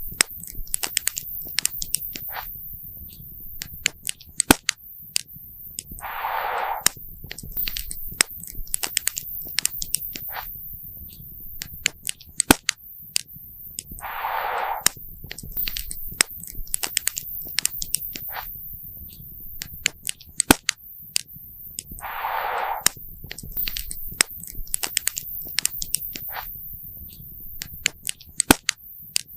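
Campfire crackling and popping: sharp snaps at irregular intervals over a low, steady rumble. A brief hiss returns about every eight seconds.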